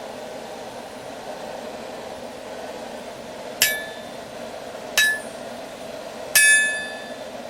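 Three hammer blows on an anvil, about a second and a half apart, each leaving a short metallic ring; the third rings longest. A steady hum runs underneath.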